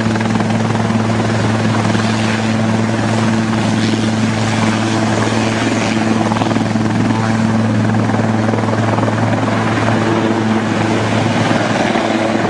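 Helicopter running steadily, a constant even drone with a low hum that does not rise or fall.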